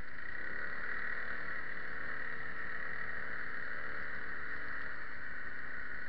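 Arctic Cat ATV engine running steadily while riding through snow.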